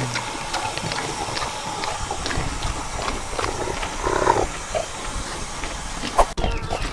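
A short animal call about four seconds in, over a background of scattered clicks and rustling.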